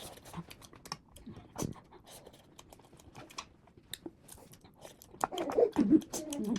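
Close-miked chewing: a run of small wet clicks and smacks of food in the mouth, louder and fuller for about a second near the end.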